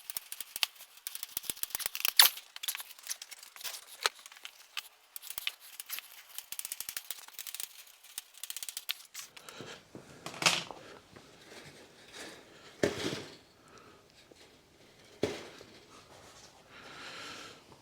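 Chicken wire being cut to length with hand cutters: a quick run of sharp snips for the first nine seconds or so. Then the cut wire rustles and rattles as it is handled, with a few louder knocks.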